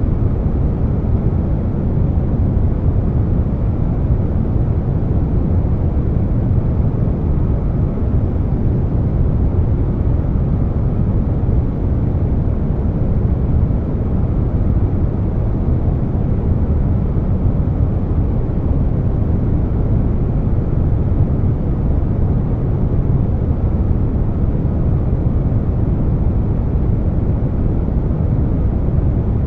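Air conditioner running, blended with brown noise: a steady, even noise weighted toward the low end, with no tones and no changes.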